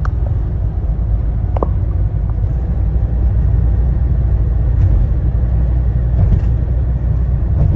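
Steady low road rumble of a moving car, with a brief faint squeak about a second and a half in.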